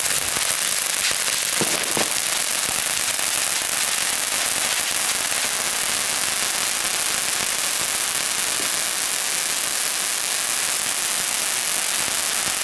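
Firework fountain spraying sparks with a steady, even hiss.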